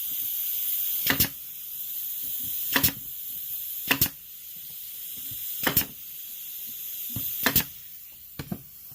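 Sharp taps on wood as slats of a swing bird feeder are knocked into place, one or two quick strikes about every second and a half, with two lighter taps near the end, over a steady hiss.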